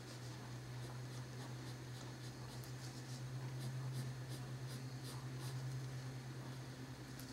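Colored pencil scratching on paper in quick, repeated short strokes while shading, over a steady low hum.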